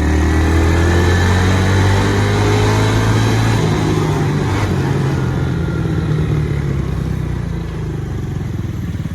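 Minibike's 196cc single-cylinder engine, governor removed and running through an open header pipe, pulling hard under throttle, then easing off about three and a half seconds in and running a little quieter toward the end.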